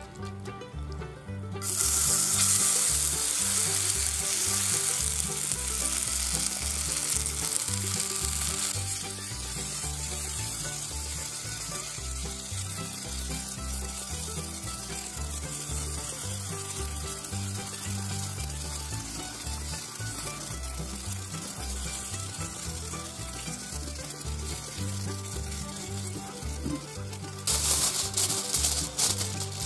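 Grated daikon batter sizzling in sesame oil in a square tamagoyaki pan as it hits the hot pan and is spread flat. A loud hiss starts about two seconds in, then eases after several seconds into a steady, softer frying sizzle.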